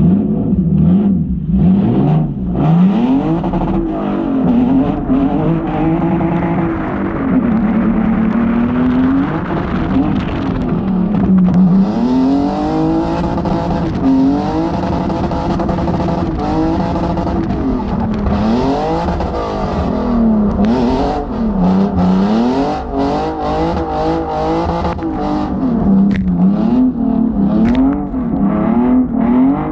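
Hyundai Genesis Coupe's engine, heard from inside the cabin while drifting, revving up and dropping back again and again as the throttle is worked through the slides.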